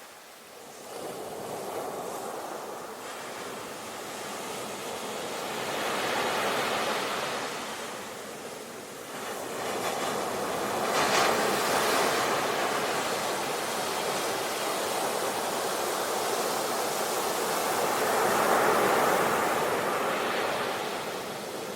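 Sea waves breaking on a shore, swelling and receding in slow surges, with a sharper crash about eleven seconds in.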